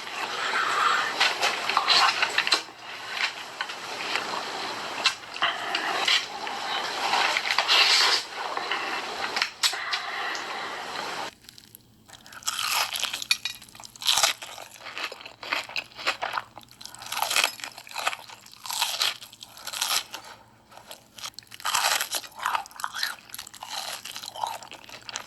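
Close-miked crunching and chewing of hot Cheetos. The crunching is dense and continuous for about the first eleven seconds, then becomes separate bites and crunches with short pauses between them.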